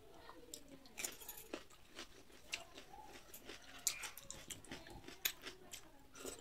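Close-up eating sounds: irregular chewing and wet mouth clicks as rice, dal and cucumber are eaten by hand, with a few sharper crunches.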